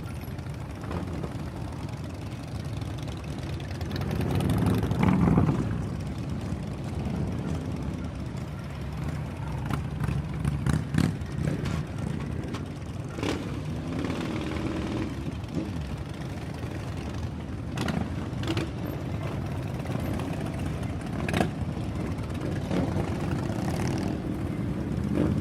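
Motorcycle engines running, with one swelling louder about five seconds in.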